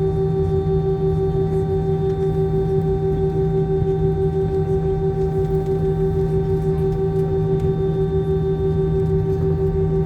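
Aircraft engines running with a steady, even drone made of several constant tones over a low rumble, with no change in pitch or level.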